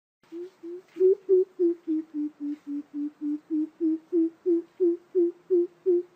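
Greater coucal giving its deep hooting call: a long, even series of low 'hoop' notes, about three a second, starting a moment in; the notes dip slightly in pitch and then rise again.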